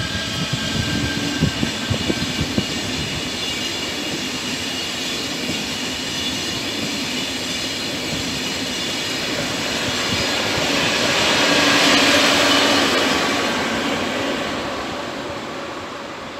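Double-deck TGV high-speed train rolling past on the rails, its wheels clicking over the rail joints at first. A broad rushing hiss swells to a peak about twelve seconds in as the rear power car goes by, then fades away.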